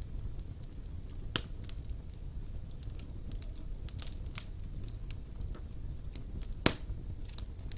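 Wood fire in a fireplace crackling over a steady low rumble of flames, with scattered small snaps. There is a clear snap about a second and a half in and a sharp, loud pop near the end.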